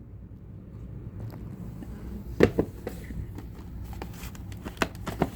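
A few light clicks and knocks of objects being handled, the loudest about halfway through, over a low steady hum.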